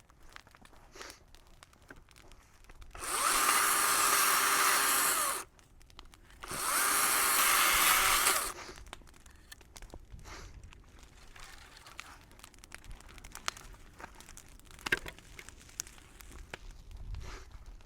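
A power saw run in two bursts of about two seconds each, with a short pause between, cutting brush. Scattered faint clicks and crackles fill the rest.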